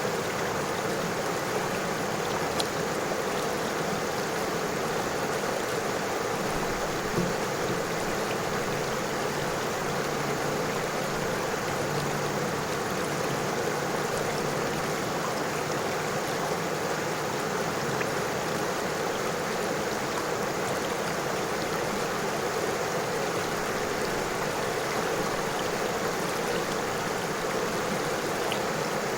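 River water flowing steadily over stones, an even rushing babble with a few faint splashes.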